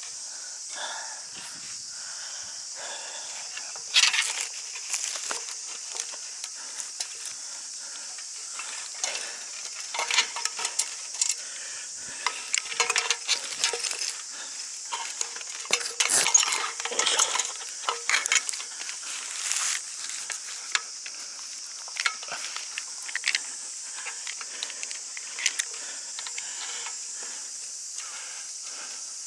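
Irregular rustling and crackling, busiest through the middle, over a steady high hiss.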